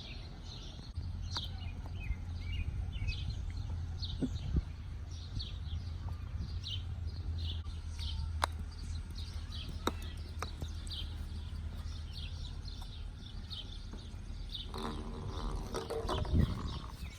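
Small birds chirping over and over with short, high calls, over a steady low rumble of wind or distant traffic. A few sharp clicks sound in the middle, and a brief voice-like call comes near the end.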